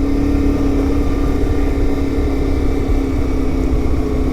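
CFMoto 450MT adventure motorcycle's parallel-twin engine running at a steady speed while riding, one even engine note over a heavy low rumble of wind.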